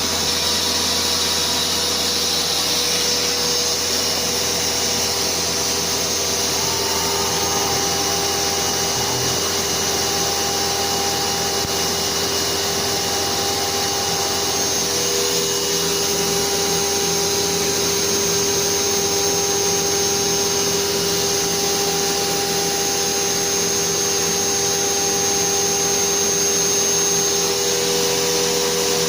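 Chinese 6040Z CNC router's spindle whining steadily while a 0.3 mm end mill engraves isolation tracks into a copper-clad PCB, with a dust-extraction vacuum running over it in a steady rush.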